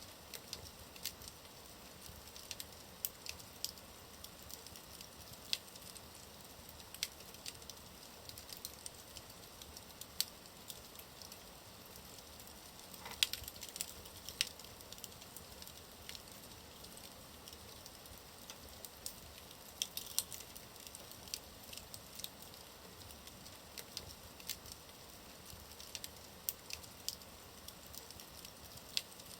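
Wood fire burning in a fireplace, with a steady soft hiss and irregular sharp crackles and pops, the loudest pop about halfway through.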